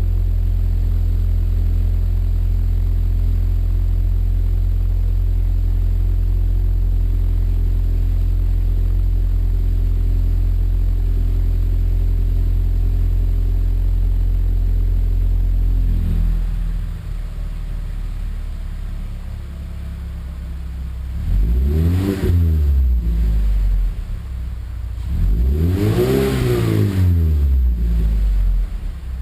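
2015 Mazda CX-5's Skyactiv four-cylinder engine running through a Corksport axle-back exhaust. It holds a steady drone, drops to a quieter idle about halfway through, then gives two free revs: a short blip, then a longer rev that rises and falls.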